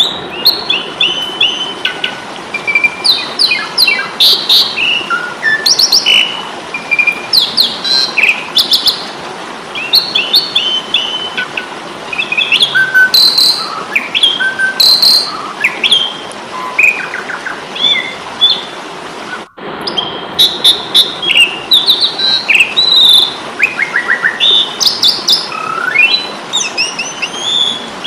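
Asian pied starling (jalak suren) singing its agitated 'fighting' song: a dense, rapid jumble of short whistles, chirps and rattling notes over a steady hiss, with a brief cut-out about two-thirds of the way through.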